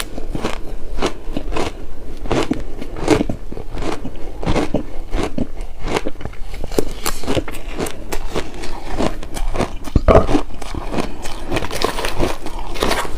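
Close-miked crunching of shaved ice being bitten and chewed, a rapid, irregular run of crackling crunches with a louder burst about ten seconds in.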